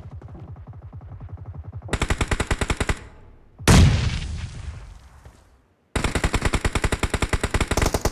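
Video-game automatic gunfire, about ten shots a second, much louder about two seconds in. A single loud boom follows about a second later and dies away over two seconds. After a brief silence, another burst of rapid fire starts.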